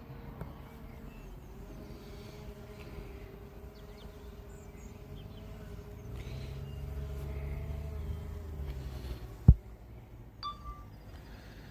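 Small drone's propellers humming steadily in the air, a faint even whine that wavers slightly in pitch. A low rumble swells in the middle, then comes one sharp click, and a short electronic beep follows near the end.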